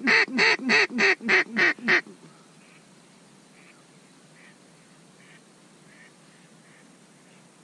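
A duck call blown in a loud, quick run of about eight mallard-hen quacks that ends about two seconds in, followed by faint, scattered quacks about once a second.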